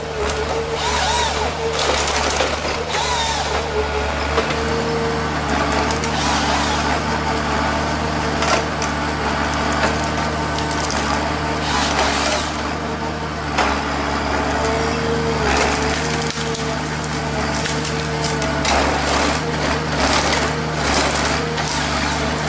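A heavy machine's engine runs steadily while wood cracks and splinters, with many short crackling snaps over the engine.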